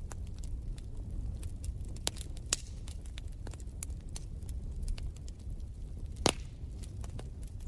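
Wood fire crackling in a fireplace: a steady low rumble with irregular sharp pops and snaps, and one louder crack about six seconds in.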